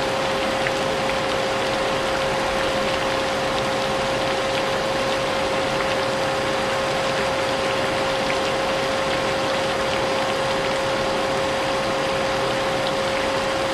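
Vacuum cleaner running steadily, its motor giving a constant whine over a broad rushing hiss, mixed with the steady wash of rain.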